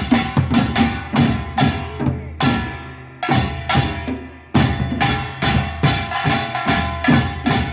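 Korean percussion troupe playing a fast run of drum strikes with ringing metal gongs. The playing thins and fades in the middle, then loud strikes come back in about four and a half seconds in.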